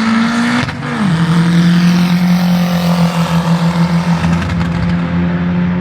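Car engine under hard acceleration: its pitch climbs, drops at an upshift about a second in, then holds steady with a slight flutter. It cuts off suddenly near the end.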